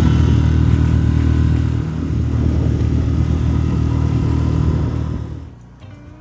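A boat's engine running steadily at a constant speed, then cut back sharply about five and a half seconds in, leaving only faint sounds.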